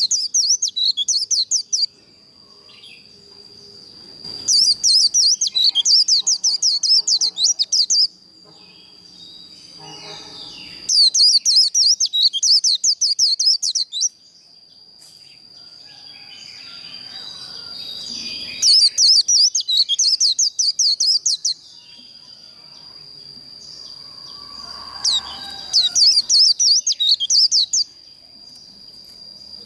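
White-eye (vành khuyên) singing its rapid 'líu' fighting song: four bursts of fast, high-pitched chattering warble, each two to three seconds long, with short pauses between. A thin, steady high tone runs underneath throughout.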